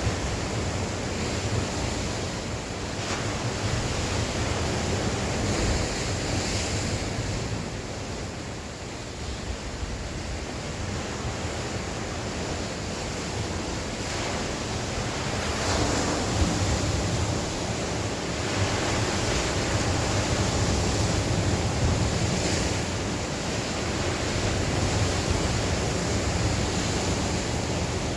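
Sea waves breaking and washing on the shore in strong wind, with gusts buffeting the microphone; the surf swells and eases every few seconds.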